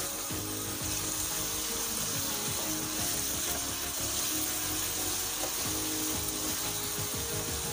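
Diced potatoes sizzling in hot oil in a pan, stirred and scraped with a wooden spatula, with soft music underneath.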